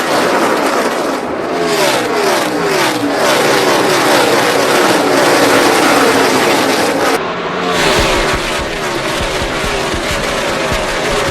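NASCAR Cup cars' V8 engines at racing speed, several cars overlapping, with their pitch sliding down again and again as they go by. About seven seconds in, the sound changes abruptly to a deeper, rumbling engine note.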